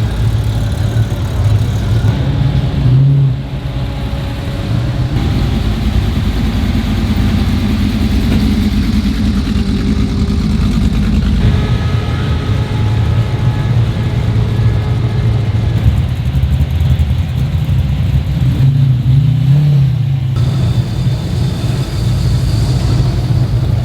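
A car engine idling, briefly revved about three seconds in and again near twenty seconds.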